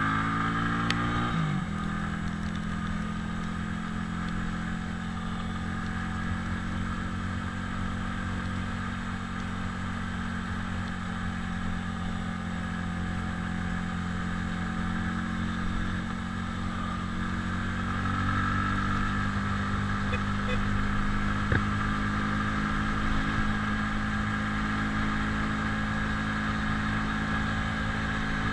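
Italika 250Z motorcycle's single-cylinder engine under way, revving up in pitch over the first second or so, then running at a steady cruising speed, picking up a little again about two thirds of the way through.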